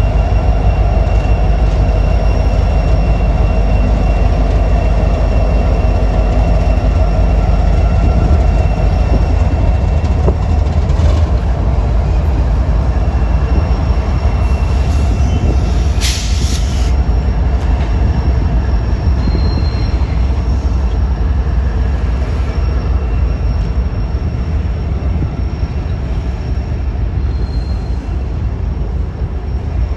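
Diesel-hauled freight train passing close: locomotive engines and wheels on the rails make a loud, steady low rumble, with faint thin squeal tones from the wheels. A brief hiss about halfway through, and the rumble eases a little near the end.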